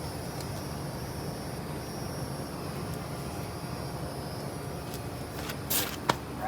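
Commercial air-conditioning condenser units running: a steady mechanical hum with a low drone and fan noise. Near the end comes a short scuff and a sharp click.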